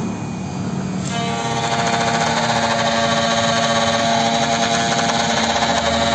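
Automatic key-cutting machine starting its cutter about a second in, then milling a Honda HR-V key blank. It gives a steady pitched whine over fine, rapid chatter.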